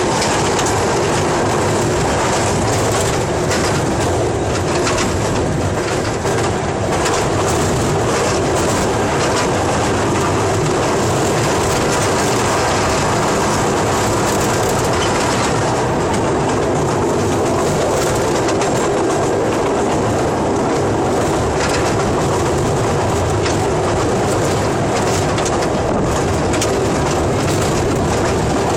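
Train running steadily, a continuous rumble of wheels on rails with fine clicking throughout.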